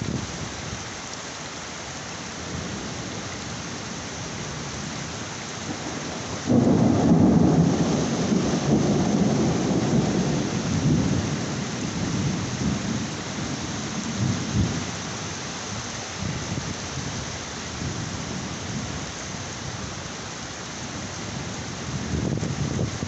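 Heavy rain falling steadily, with a loud clap of thunder about six seconds in that rumbles on and slowly fades over the next several seconds.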